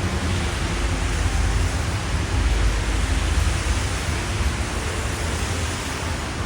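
Steady street noise on a rain-wet city road: a hiss of wet tyres and rain over a low rumble of passing traffic.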